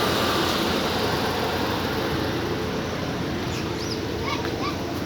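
Steady rushing outdoor background noise, slowly fading, with a few faint short high chirps near the end.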